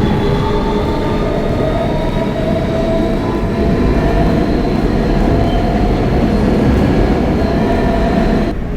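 R160B subway car with Siemens propulsion running between stations, heard from inside the car: a steady rumble of wheels on rail with several steady whining tones over it. The noise thins out abruptly near the end.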